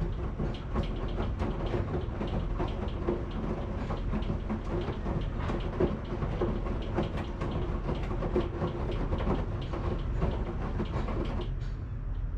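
Washing machine running: a steady low rumble with dense, irregular clicking and rattling over a steady hum, the clatter thinning out near the end.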